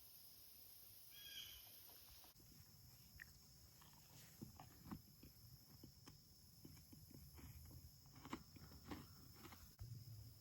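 Quiet woodland ambience: a steady high insect hum, a short bird call about a second in, then scattered light rustles and ticks, as of movement in dry leaves.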